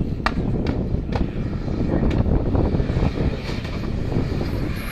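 A rally car's engine running on the sprint course, mixed with heavy wind buffeting on the microphone, with a few sharp cracks scattered through it.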